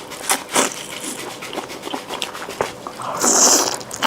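Close-miked eating sounds: wet mouth noises and small clicks, with a longer noisy slurp-like burst about three seconds in.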